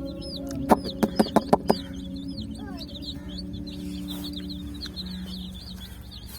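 A flock of young chicks peeping continuously: many short, high chirps that rise and fall, several a second. About a second in, a quick run of sharp clicks is the loudest sound, over steady low background notes that fade out near the end.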